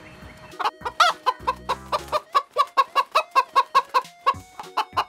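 Domestic hens clucking: a quick, even run of short clucks, about five a second.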